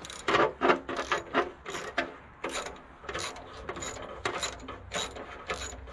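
Hand socket ratchet clicking in a run of short, uneven strokes as a bolt is worked loose.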